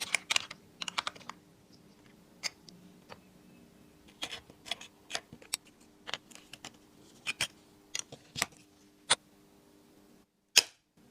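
Irregular sharp clicks and taps, from a few to several a second, over a faint steady hum. Near the end the sound drops out briefly before one louder knock.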